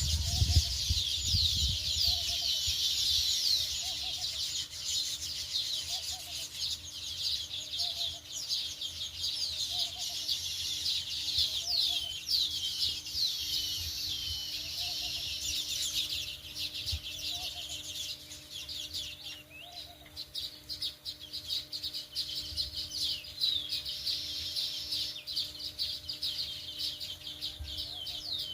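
A flock of sparrows chirping in a dense, busy chorus of quick, falling chirps, thinning a little in the second half. A faint low note repeats about every second and a half underneath, and there is a brief low rumble at the start.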